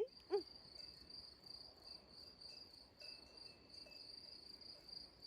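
Crickets chirping in a faint, steady high-pitched trill.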